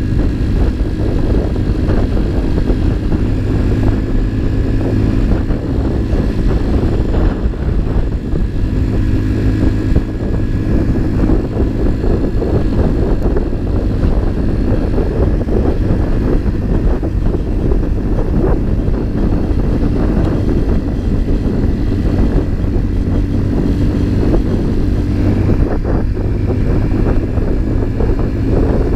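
Motorcycle engine running steadily under way, mixed with low wind rumble on the camera's built-in microphone.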